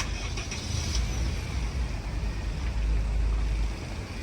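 A car running at low speed as it is driven slowly forward, with a steady low rumble.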